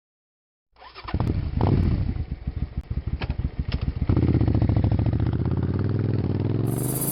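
A motocross bike's engine starting about a second in and running with an uneven beat, then settling into a steadier, higher run about four seconds in.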